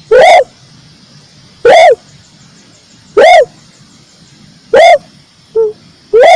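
Dove cooing, the bird sold as tekukur merah: loud, repeated, hollow notes about every one and a half seconds. Each note rises and falls in pitch, and some are preceded by a shorter, lower note.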